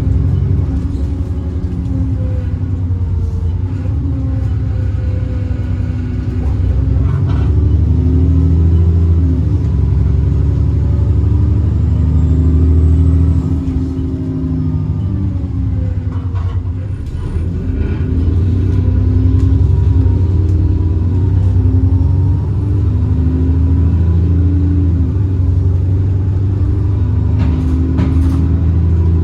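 ADL Enviro 400 double-decker bus's diesel engine under way, its note rising and falling again and again as it pulls through the gears.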